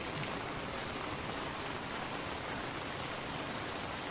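Steady rain falling and pattering on the ground, a continuous even hiss with scattered faint drop ticks.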